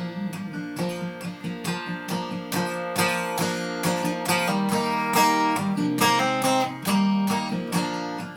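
Instrumental break in an old-time folk ballad: an acoustic guitar picking the melody over strummed chords, with no singing.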